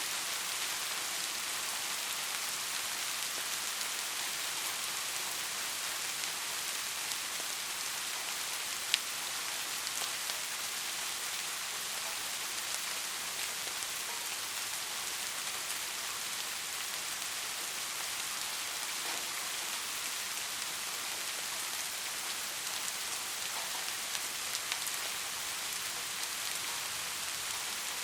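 Steady rain falling: an even hiss of dense drops with small scattered ticks, and one sharper drop tick about a third of the way in.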